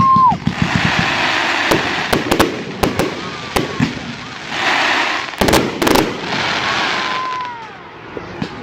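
Fireworks going off: a run of sharp bangs and cracks over a crackling hiss, with the heaviest bangs about five to six seconds in. A steady firework whistle drops in pitch as it ends at the start, and again near the end.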